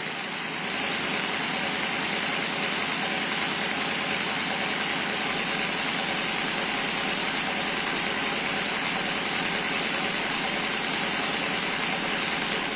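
A machine running steadily, with a fast, dense chatter that holds an even level throughout.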